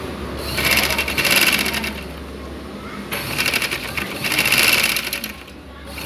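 Overlock (serger) machine running in two bursts of a second or two each, its needles and loopers chattering rapidly over the motor's hum, as it stitches a test piece of fabric after being newly threaded.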